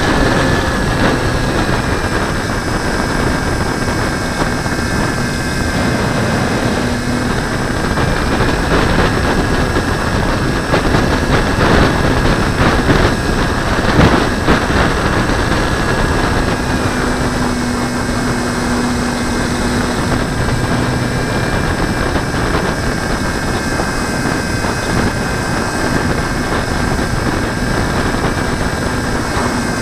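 Light aircraft in flight heard from a wing-mounted camera: a loud, steady rush of wind over the microphone with a steady drone running through it. The noise swells briefly near the middle.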